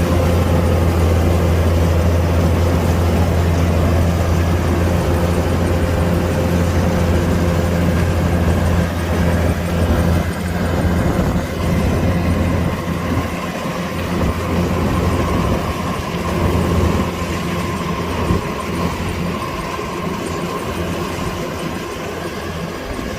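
Kubota DC-105X combine harvester's diesel engine running with a steady low drone, which eases and becomes more uneven about ten seconds in. A thin, steady whine comes in about halfway through.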